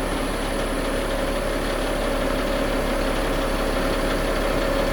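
Caterpillar 3126B inline-six diesel of a Ford F750 running steadily with the PTO engaged, powering the HIAB knuckle-boom crane's hydraulics as the boom folds in. A steady whine sits over the engine sound.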